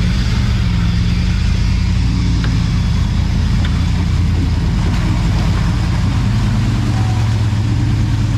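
Off-road vehicle's engine running steadily with a low, even note that shifts slightly in pitch.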